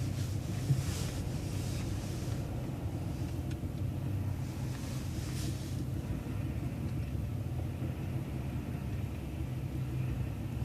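City bus driving along, heard from inside: a steady low engine and road rumble, with a brief hiss about a second in and again around halfway.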